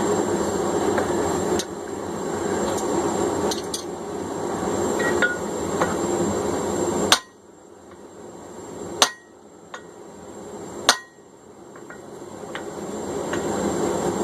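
A forge runs with a steady rushing noise for the first half. About halfway through it gives way to three hammer blows on hot steel at the anvil, about two seconds apart, each with a short ring, as punching the eye hole in the 1045 block begins.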